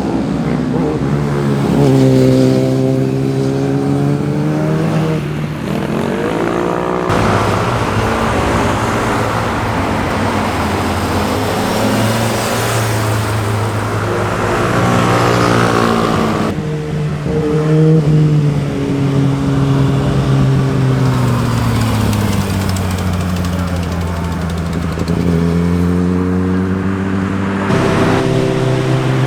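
Sport motorcycles accelerating and passing, their engines revving up and falling back with gear changes. The engine sound switches abruptly twice, about a third and just over halfway through.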